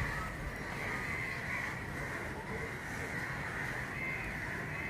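Many birds calling at once in a dense, continuous chorus of overlapping short calls.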